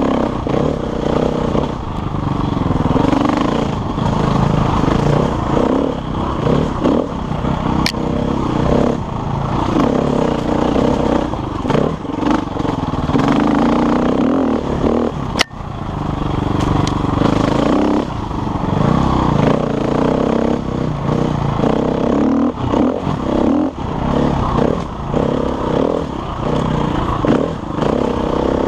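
KTM enduro motorcycle engine ridden over rough single-track, revving up and dropping back again and again as the throttle opens and closes, with clattering from the bike and a sharp knock about fifteen seconds in.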